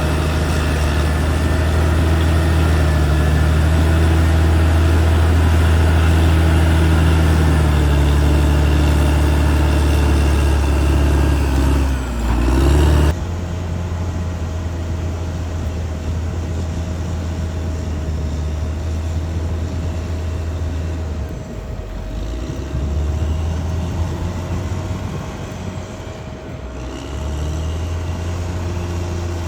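Caterpillar D6R XL bulldozer's diesel engine running hard under load with a deep, steady note. The note sags briefly about twelve seconds in, and about a second later the sound switches abruptly to a quieter, lighter engine sound that carries on steadily.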